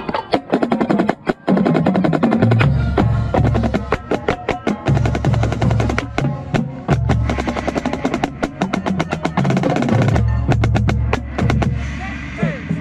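Marching snare drum played right at the microphone: rapid strokes and rolls. Sustained low band notes come in about two and a half seconds in, and the drumming thins out near the end.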